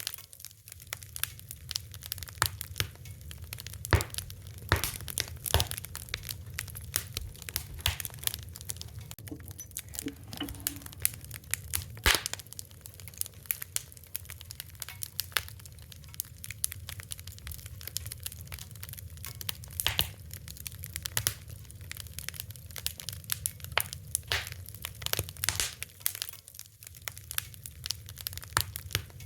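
Fire crackling, with irregular sharp pops and snaps over a steady low rumble; a few louder pops stand out, about four and twelve seconds in.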